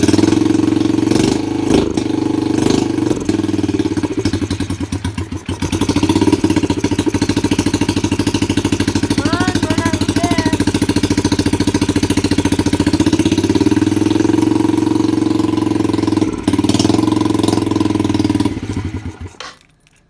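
Four-stroke dirt bike engine running loudly and steadily with its fuel tap shut, burning the carburettor dry. The revs dip briefly about five seconds in, and the engine stops just before the end.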